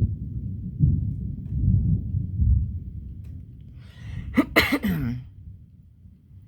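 Thunder from a nearby lightning strike: a deep rumble that surges several times and then dies away. About four and a half seconds in, a person makes a brief vocal sound, like a cough or exclamation.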